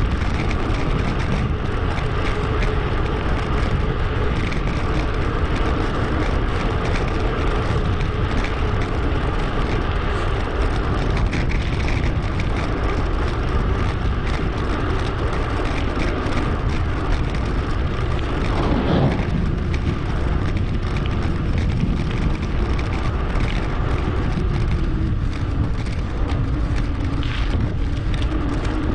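Steady wind rush on an action camera's microphone while riding a bicycle, with road and tyre noise and a faint steady hum.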